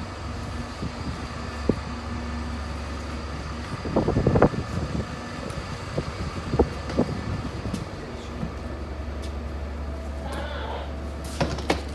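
A steady low rumble with scattered knocks and clatter over it: a louder cluster about four seconds in, and another near the end.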